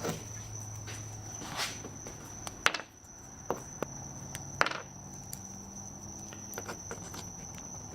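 Scattered sharp clicks and taps of metal ball bearings being worked out of a plastic 3D-printed hand spinner and handled, about half a dozen of them, over a faint steady high-pitched whine.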